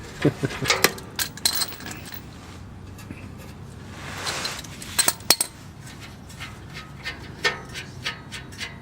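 Metal hand tools clinking and knocking against metal as exhaust fasteners under a car are worked on, with scattered sharp clinks and the loudest pair about five seconds in.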